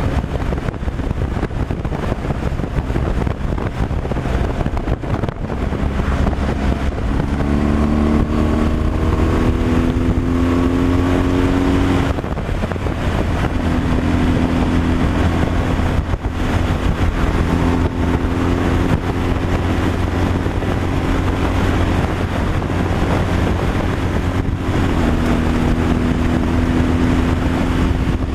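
Semi-truck engine pulling on the road, over road and wind noise. Its note climbs for a few seconds, drops at a gear change about twelve seconds in, then holds steady.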